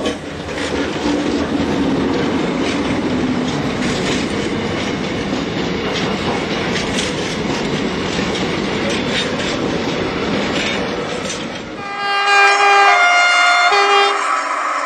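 A train running past, with a steady rumble and the repeated clatter of wheels over rail joints. About twelve seconds in, the sound changes suddenly to a two-tone locomotive horn sounding three short notes that alternate between two pitches.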